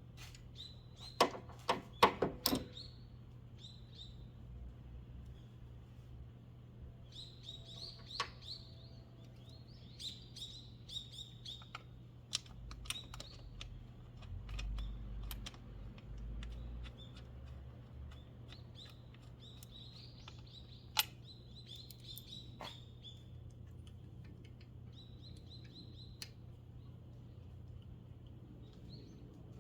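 Small birds chirping on and off in short high calls. A quick cluster of sharp knocks comes about a second or two in and a single one later, over a steady low hum.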